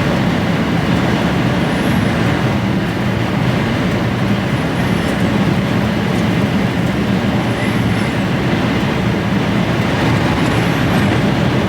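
Steady diesel engine and road noise inside an HGV's cab as the loaded lorry climbs a hill, with storm wind starting to build up against the cab.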